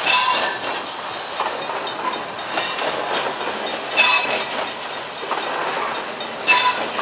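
Loaded freight train flatcars rolling past: a steady rush of steel wheels on rail with some clicking, and a short high metallic ringing tone three times.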